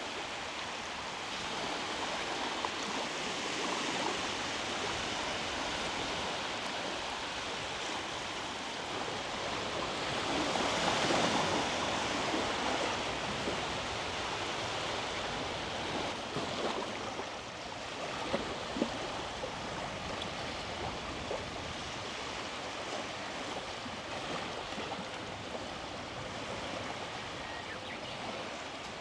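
Small sea waves washing onto the beach: a steady rush of surf, with one wave swelling louder about a third of the way through and a smaller one a little later.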